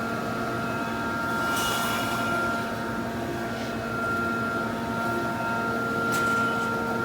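Anti-climb fence mesh welding machine running: a steady electrical hum with short hisses of air, about one and a half seconds in and again near six seconds.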